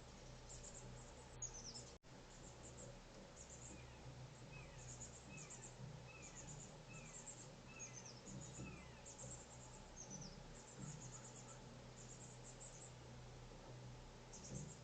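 Faint outdoor ambience with small birds chirping: clusters of very high, thin chirps repeat throughout. In the middle there is a series of about six short downward-slurred notes, roughly one a second.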